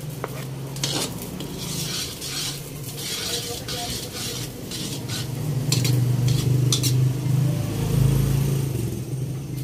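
Chopped garlic sizzling in melted margarine while a metal spoon stirs and scrapes against the pot, with a few sharp clinks. A steady low hum runs underneath and grows louder in the second half.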